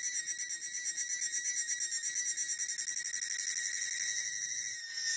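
Cicada calling: a loud, shrill, pulsing buzz at about six pulses a second, with a brief dip near the end.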